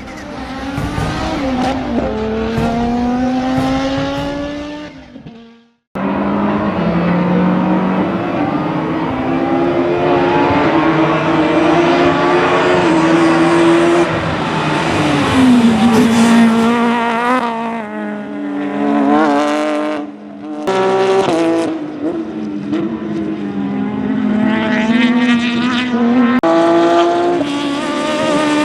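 Peugeot 306 Maxi kit car's four-cylinder rally engine at high revs, its pitch climbing and dropping again and again through gear changes. The sound fades and breaks off about five seconds in, then picks up again loud with more runs up and down the revs.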